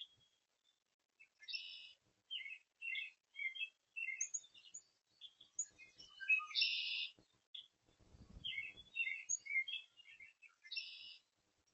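Songbirds calling: clusters of short, quick chirps, broken three times by a harsh buzzy call about half a second long. There is a brief low rumble a little past the middle.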